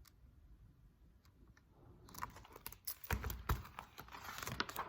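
A picture book being handled as its page is turned. After about two seconds of near silence, a quiet run of small clicks and paper rustles begins, with a soft thump about three seconds in.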